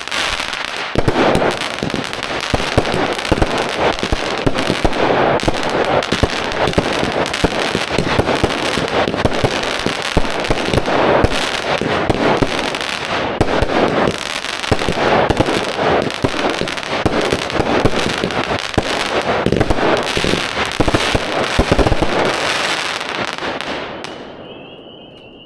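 Three Epic Monster Truck 16-shot 200-gram firework cakes firing together: a dense, continuous run of launch thuds, crackling and popping that fades out near the end.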